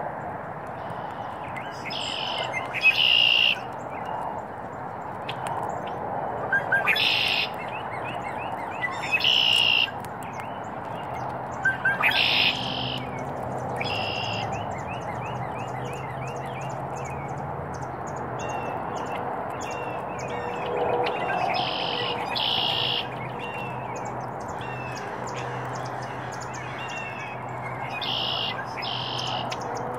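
Wild birds calling: short, loud, high calls, often two close together, every few seconds, with quieter rapid chirping between them over a steady background noise.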